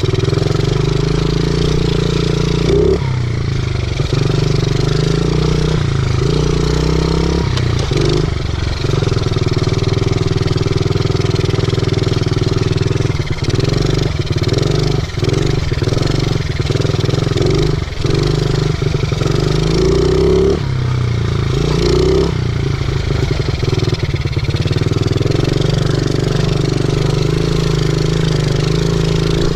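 50cc pit bike's single-cylinder engine running while riding, its pitch repeatedly rising and falling with the throttle.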